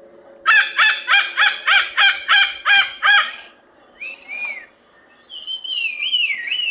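Macaw squawking: a fast run of about ten harsh calls, roughly three a second, then a single call and a longer, falling call near the end.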